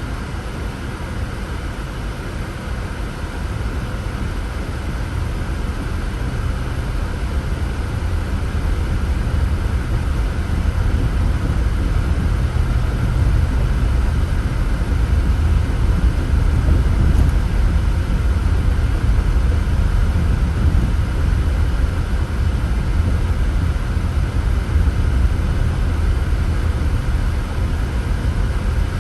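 Car driving, a steady low road-and-engine rumble heard from inside the vehicle, growing louder over the first half as it picks up speed or the road gets rougher, then holding steady.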